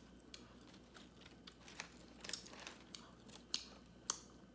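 Close-up chewing of crispy batter-fried shrimp: a handful of short, scattered crunches with quiet gaps between them.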